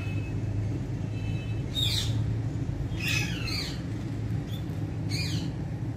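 Ringneck parrot giving short, sharp squawks, four in quick succession with pitch sweeping downward, over a steady low hum.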